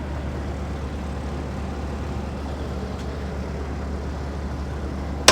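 A steady low hum with an even rushing noise, unchanging throughout, and a sharp click right at the end.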